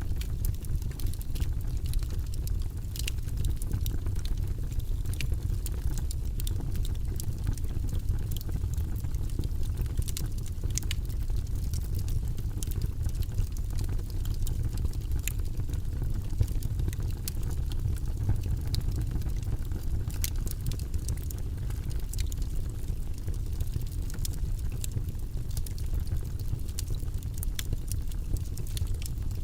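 Wood fire burning in a fireplace: a steady low rumble with many small, irregular crackles and pops from the logs.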